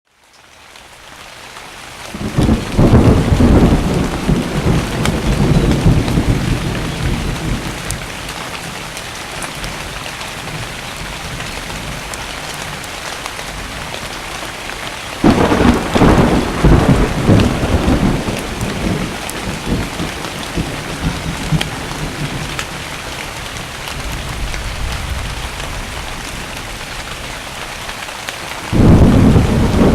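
Steady rain with three rolls of thunder: the first about two seconds in as the sound fades in, a sudden clap and rumble about halfway, and another starting near the end.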